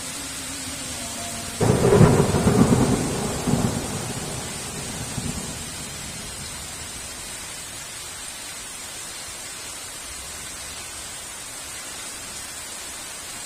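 A thunderclap cracks suddenly about two seconds in and rolls away in rumbles over the next few seconds, over steady heavy rain.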